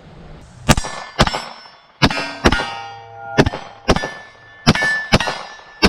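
9mm cartridges being pressed one by one into a pistol magazine: about ten sharp metallic clicks at roughly half-second intervals, each with a brief ring of brass.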